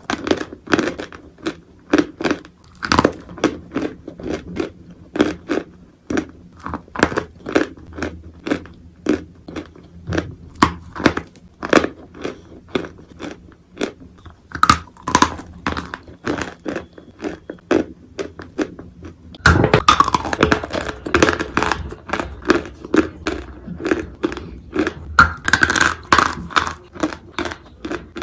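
A person biting and chewing lumps of dry edible clay: a run of sharp, irregular crunches and cracks, becoming louder and denser about two-thirds of the way through.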